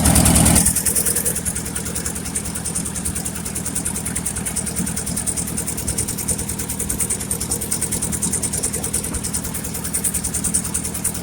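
1958 Ford 851 tractor's four-cylinder engine idling steadily, a little louder for the first half second.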